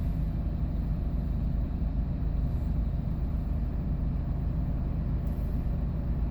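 Steady low drone of a Hyundai Porter II box truck driving, engine and road noise heard from inside the cab.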